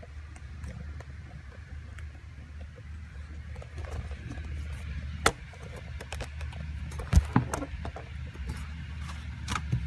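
Steady rain hiss over a low rumble, broken by a few sharp knocks and clicks from the phone being handled, the loudest about seven seconds in.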